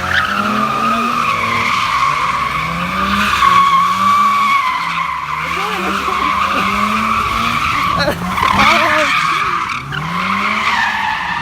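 A car sliding on its tires in one long continuous screech, while the engine revs rise and fall about once a second.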